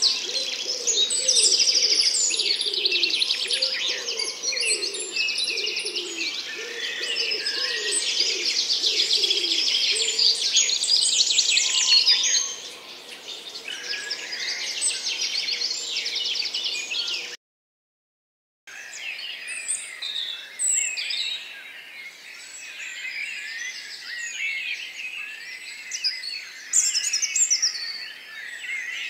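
A dense chorus of many small birds chirping and trilling, with lower repeated calls under it for the first ten seconds. The sound cuts out completely for about a second past the middle, then a sparser chorus of chirps carries on.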